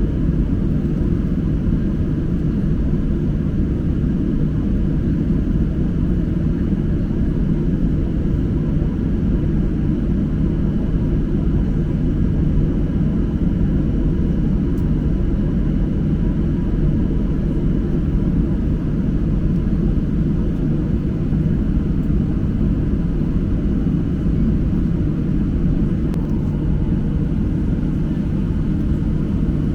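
Steady low rumble of a Boeing 737-800's CFM56 jet engines and airflow, heard from inside the passenger cabin, unchanging throughout.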